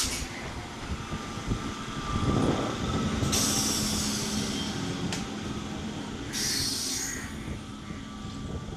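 Local passenger train running on the line, rumbling steadily with a low hum. Two stretches of high hiss come from the wheels or brakes, one about three seconds in lasting nearly two seconds and a shorter one near seven seconds.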